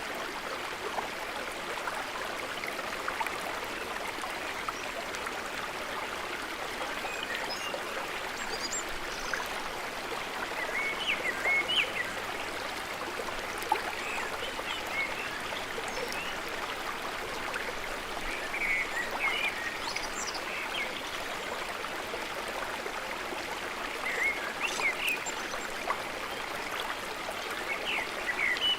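Small stream flowing over rocks: a steady rushing babble, with short higher-pitched plinks coming in small clusters every few seconds.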